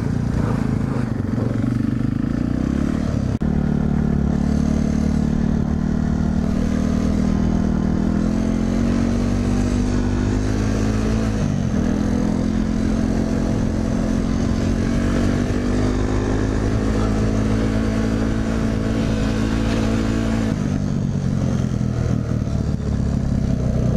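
Motorcycle engine running under way. Its pitch climbs steadily and drops sharply at gear shifts about three seconds in, near the middle and near the end.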